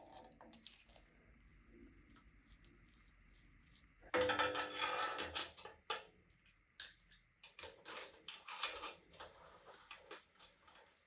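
Small metal parts clinking and clattering as they are handled: a brief rattle about four seconds in, then one sharp metallic click, the loudest sound, and a run of lighter clicks.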